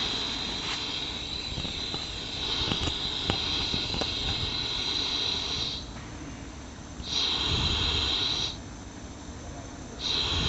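Compressed air from a cylinder leak-down tester hissing out of the exhaust of a Ford Ka 1.0 12V three-cylinder engine, leaking past an exhaust valve of cylinder one. This is the sign of a poorly sealing valve in the cylinder head. The steady hiss stops twice for a second or so each time, then starts again.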